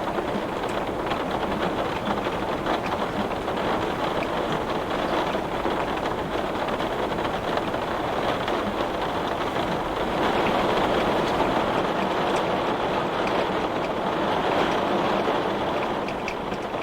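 Heavy rain falling on window glass: a dense, steady hiss of drops that swells a little past the middle.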